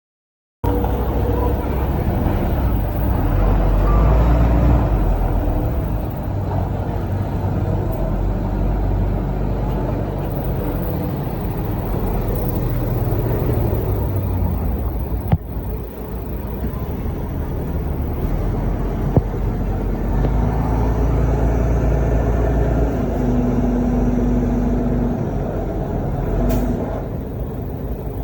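Heavy diesel earthmoving machinery running, a loud low engine rumble that starts suddenly about half a second in and swells and eases, with two short sharp clicks midway.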